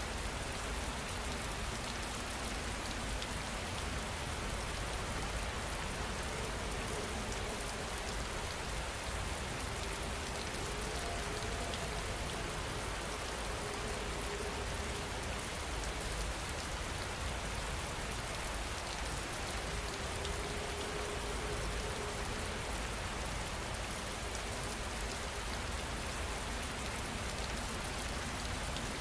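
Steady rain falling on a surface, an even continuous patter with no thunder.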